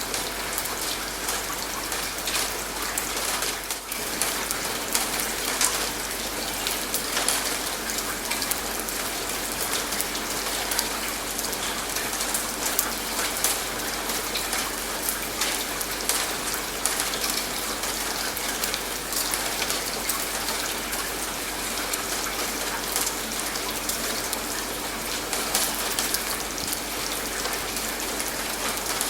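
Steady rainfall: a continuous even hiss with many separate drops ticking through it.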